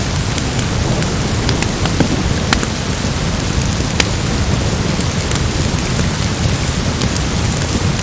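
Steady rain falling during a storm, with a low rumble underneath and scattered sharp crackles and ticks. This is a mixed rainstorm and crackling fireplace ambience.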